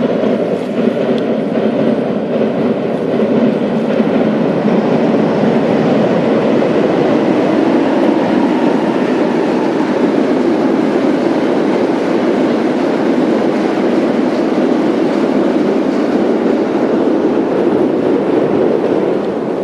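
A train passing close by: a loud, steady rumble of wheels on rail that begins suddenly and holds without let-up.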